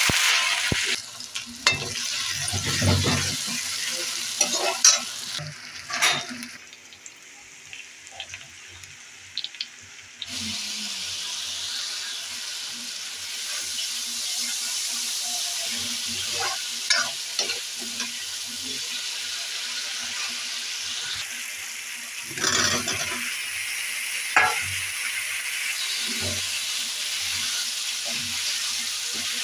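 Chopped onions and green chillies sizzling in hot oil in a pan, starting suddenly and loud, then a spiced masala frying with a steady sizzle while a spoon stirs and scrapes against the pan with occasional knocks.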